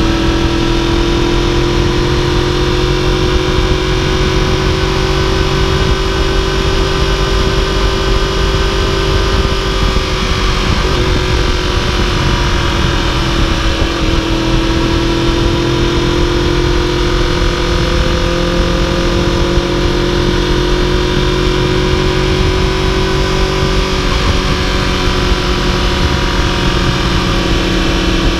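2015 Yamaha YZF-R1's crossplane inline-four running steadily at cruising speed, heard from the bike itself with wind rush. Its note dips slightly in pitch about halfway through, then comes back up.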